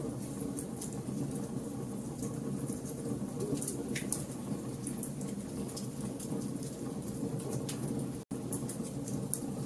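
Wood campfire burning: a steady low rush of flames with scattered sharp crackles and pops from the burning logs. The sound cuts out for an instant about eight seconds in.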